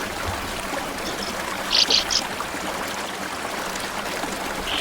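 Small stream flowing steadily. A few short, high bird calls from sand martins come about two seconds in and once near the end.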